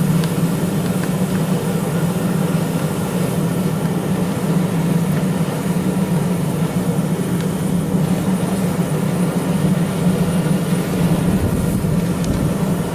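Forge running with a steady, unbroken rushing noise and a strong low hum while a billet heats for forge welding.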